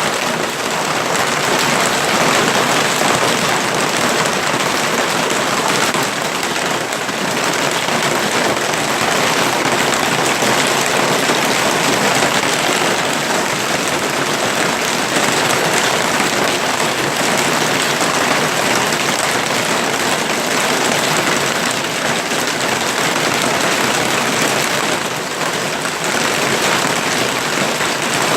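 Hail and heavy rain pelting down in a hailstorm: a loud, steady din of countless small impacts.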